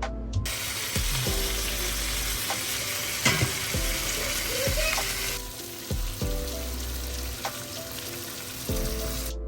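Food sizzling in a hot frying pan over background music. The sizzle starts about half a second in and cuts off just before the end.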